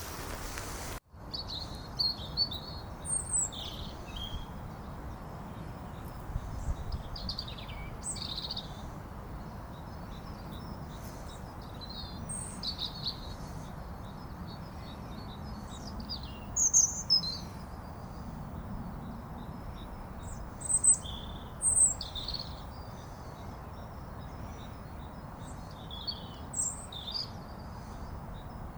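Wild birds chirping and calling in short, scattered phrases over a steady low outdoor rumble, with a faint continuous high buzz underneath. The sound cuts out briefly about a second in, then resumes.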